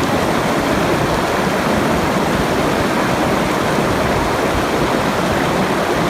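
Steady rushing water, an even unbroken roar like a waterfall or fast stream.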